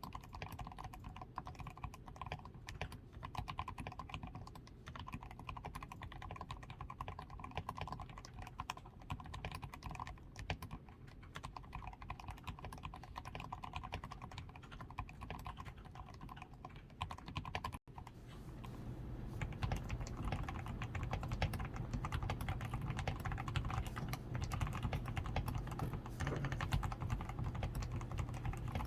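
Steady, continuous typing on a DAREU A87 Pro mechanical keyboard, fully lubed with Krytox 105, PCB tape-modded and fitted with XDA keycaps. About two-thirds of the way through the sound drops out for an instant and the typing comes back a little louder.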